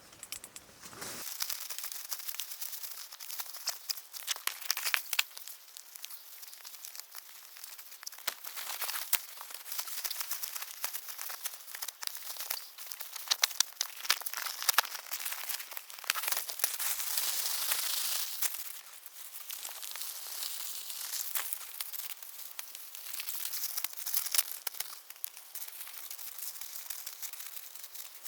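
Crinkly camping gear being handled and packed up close to the microphone: irregular rustling and crumpling with many sharp crackles, louder in spells.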